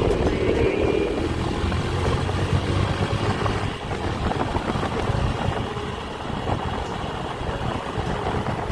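Small motorcycle engine running on the move, a steady low rumble with rushing noise over it, its pitch sliding down during the first second or so as the revs ease.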